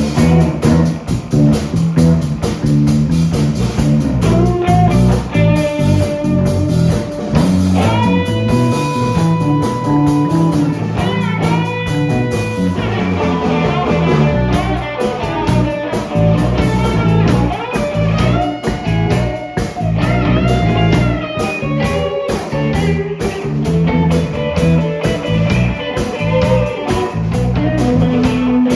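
Blues-rock band playing: an electric guitar solo with held, bent notes over bass and a steady drum-kit beat.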